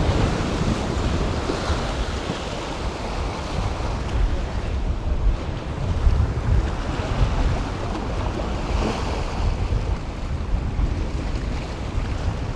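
Gulf surf washing steadily against the jetty, with gusty wind buffeting the microphone.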